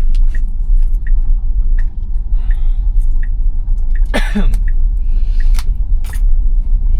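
Steady low tyre-and-road rumble inside a moving Tesla Model Y electric car's cabin, with scattered small clicks and rattles. A brief falling squeak-like sound comes about four seconds in.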